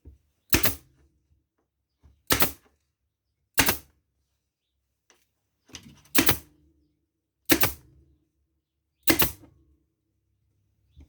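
Hand staple gun firing six single shots into a hardwood seat frame, each a sharp snap, spaced roughly one to two and a half seconds apart, fixing linen hessian over the webbing.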